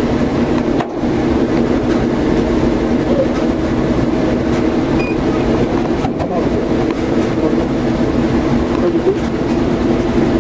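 A steady mechanical drone from an engine or motor running at constant speed: an unchanging hum with no rises or falls.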